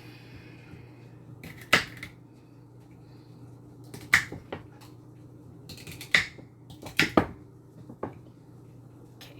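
Knife knocking on a cutting board while vegetables are chopped: about seven sharp, unevenly spaced knocks, two of them close together a little past seven seconds in.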